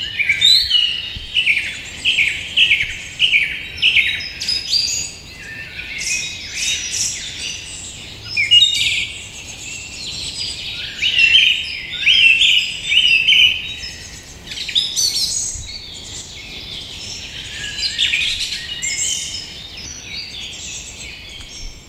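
Songbirds chirping and singing, many short falling notes in quick runs that overlap throughout.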